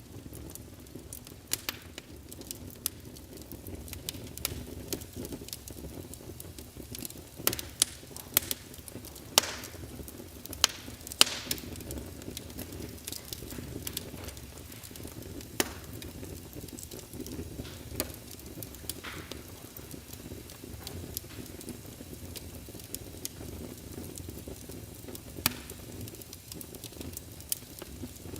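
Fireplace crackling: a steady low rumble of burning with irregular sharp pops and snaps, more of them about a third of the way in.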